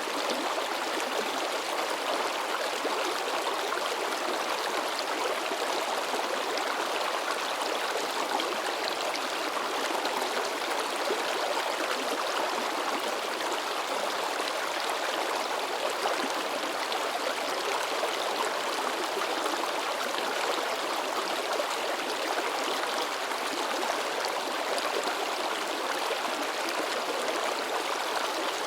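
A shallow river babbling and splashing over rocks: a steady, even rush of water with no pauses.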